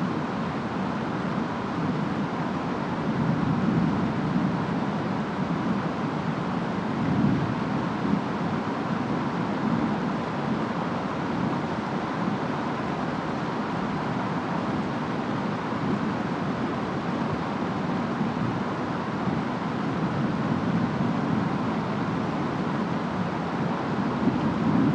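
Steady rain and wind of a storm, an even hiss with a low rumble that swells and eases every few seconds.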